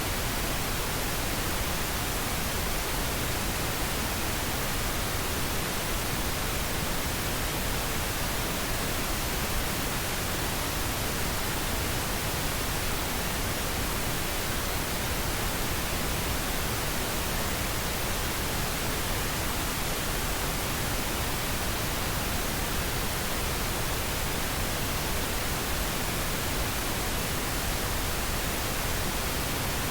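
Steady white noise: an even hiss across all pitches that never changes.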